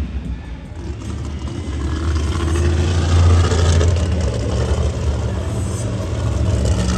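Monster truck's supercharged engine running hard, a deep rumble that builds over the first few seconds and then holds.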